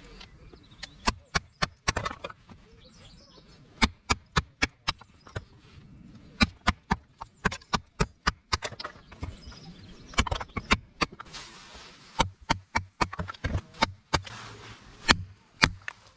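Knife chopping on a cutting board: a run of sharp, uneven knocks, a few a second, with two short spells of rustling near the middle and end.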